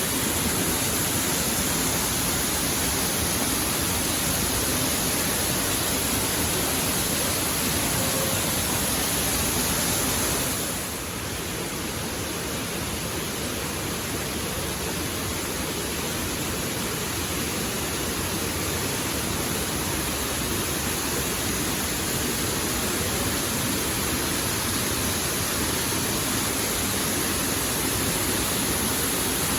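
Waterfall: a steady rush of falling water, dipping slightly in level about eleven seconds in and slowly building back.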